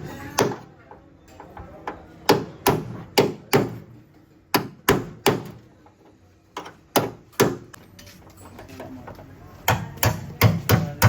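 Hammer blows on car bodywork, landing in short groups of two to four with pauses between, as dents are beaten out of the panels.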